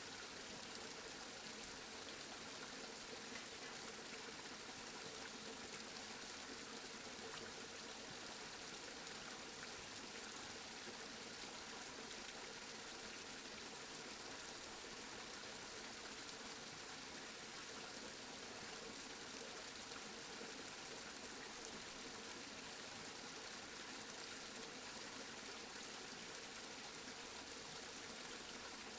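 Steady rain falling, a constant even hiss of drops with no thunder or other events.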